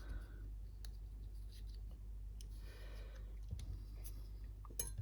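Small handling noises: a few light clicks and a brief rustle as parts are handled, over a steady low hum.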